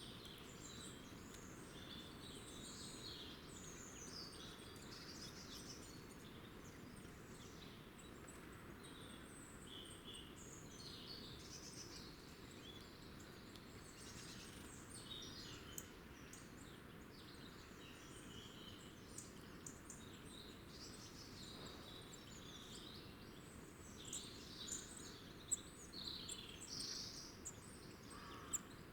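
Small wild birds chirping and twittering faintly and continuously over a steady low background hiss, with a few louder calls near the end.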